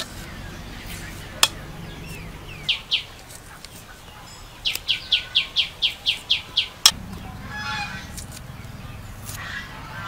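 A bird calling: two high down-slurred chirps, then a fast run of about ten chirps, about five a second, lasting two seconds. Two sharp clicks come between them, the louder one right after the run.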